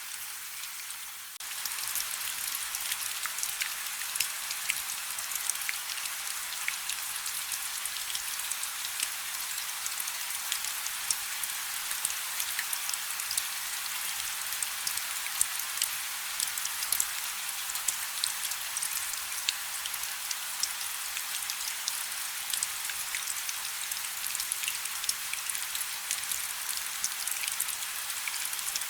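Light rain falling: a steady hiss made up of many small drops pattering. It steps up abruptly in loudness about a second and a half in.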